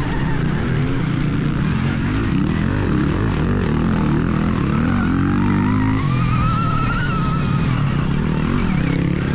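Stark Varg electric motocross bike riding on a track: its electric motor whine rises and falls with the throttle over a steady low rumble of wind and drivetrain noise.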